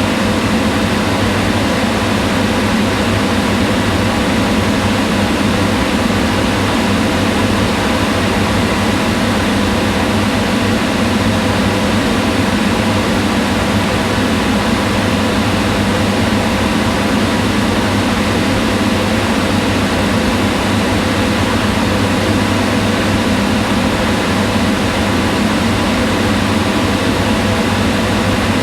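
Kitchen range hood exhaust fan running steadily: an even whoosh of moving air with a low hum and a few faint steady tones over it.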